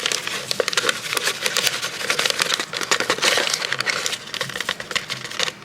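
Dense crackling and crinkling of packaging being handled, typical of instant pudding mix boxes and their inner bags being torn open.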